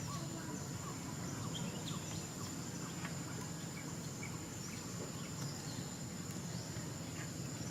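Outdoor ambience: a steady high-pitched insect drone, with scattered short bird chirps and a low background rumble.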